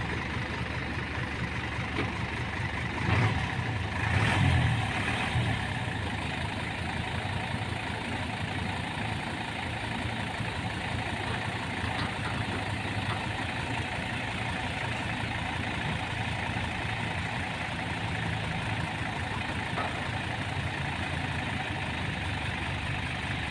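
Heavy truck's diesel engine running steadily at low revs, swelling louder briefly about three and four to five seconds in. The truck is struggling for grip on rain-slick mud and can't make it up.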